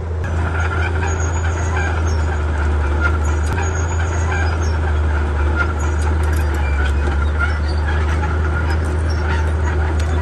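Komatsu D31P bulldozer's diesel engine running steadily under work, a constant low drone with scattered light clicks and knocks over it.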